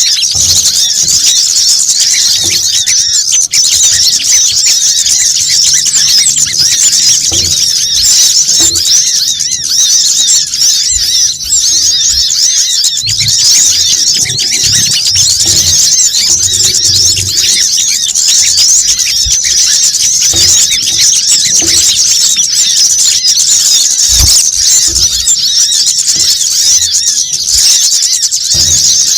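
Bird-trapping lure recording: a dense, unbroken chorus of high-pitched chirps and twitters from small songbirds, many calls overlapping with no pause.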